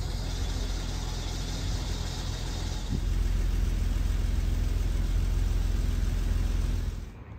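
Vehicle engine idling with a steady low rumble that gets louder about three seconds in, a hiss over it for the first three seconds.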